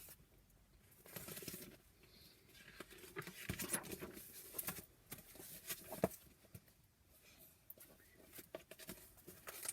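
Soft rustling and handling noises of a paper picture book, its pages being turned, with scattered small clicks and one sharper tap about six seconds in.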